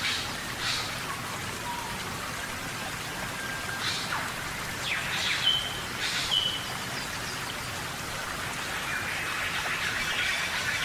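Steady rainforest rain, with a few short chirping calls over it that sweep down in pitch: a couple near the start and a cluster in the middle. A busier chatter of calls starts near the end.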